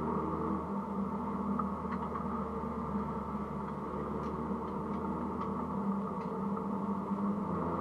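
Mini Cooper S (R53) engine heard from inside the cabin, holding steady revs with little change in pitch, over road noise and a few faint ticks and rattles.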